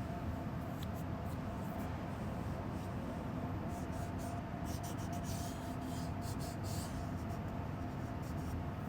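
Airbrush letting out short, irregular bursts of air hiss as the trigger is worked, clustered in the middle, over a steady low hum.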